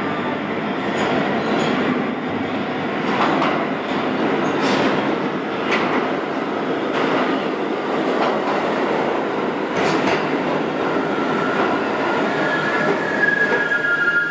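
Pullman-Standard R46 subway train running through the station, a steady rumble broken by sharp clicks of the wheels over rail joints about every second or so. A high wheel squeal comes in near the end.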